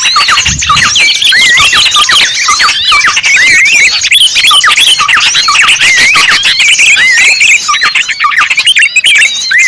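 Bird-lure recording of many small birds calling at once: loud, overlapping whistled chirps that sweep up and down, repeating without a break.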